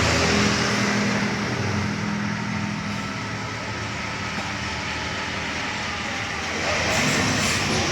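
Heavy road traffic: a large diesel vehicle's engine drones past and fades away over the first couple of seconds. Near the end another vehicle approaches and the noise grows louder.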